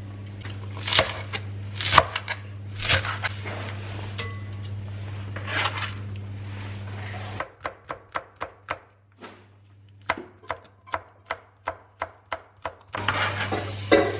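Kitchen knife chopping food on a cutting board: separate strokes about once a second over a steady low hum, then, after about seven seconds, a quicker run of about three chops a second.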